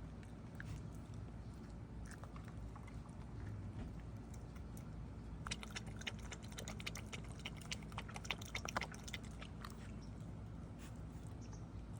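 Puppies chewing and nibbling, with a dense run of quick small clicks and crunches in the middle.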